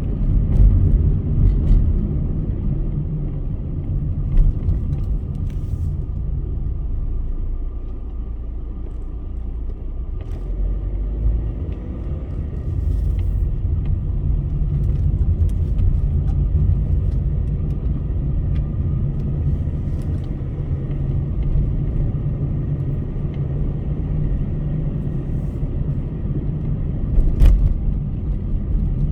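Car on a highway: steady low road and engine rumble with tyre noise, a few faint clicks, and one sharper click near the end.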